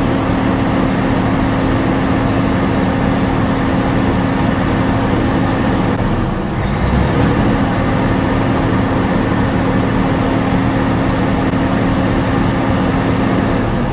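Mercedes OM460LA 12.8-litre inline-six diesel engine running steadily on a test run, dipping briefly about six seconds in before carrying on.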